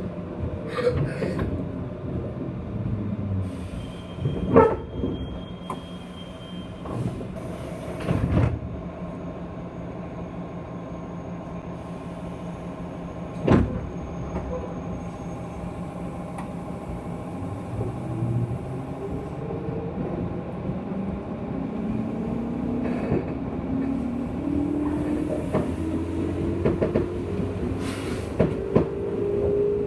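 JR West 201-series EMU motor car: the chopper-controlled traction motors whine falling in pitch as the train slows near the start. After a few knocks and clunks while running slowly or stopped, the whine rises steadily again from about two-thirds of the way through as the train accelerates.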